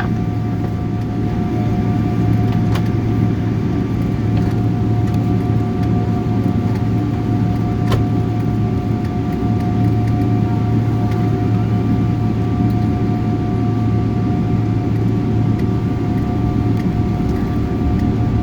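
Airliner cabin noise with the jet engines running: a steady low rumble with two steady whining tones above it, and a couple of light clicks around three and eight seconds in.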